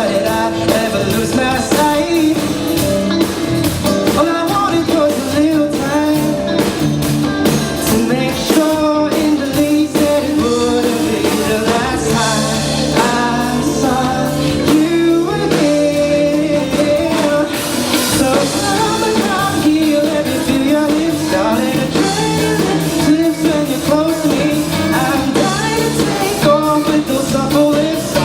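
A live band playing a pop-rock song, with singing over the instruments.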